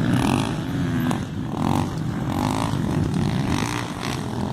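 Motocross bike engines running on the track, a steady rumble.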